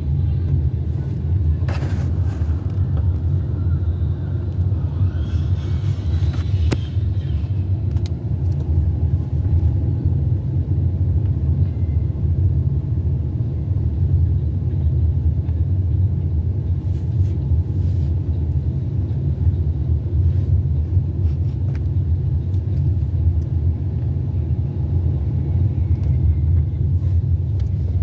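Steady low rumble of a car driving along: engine and road noise of a moving car, with a faint click about two seconds in.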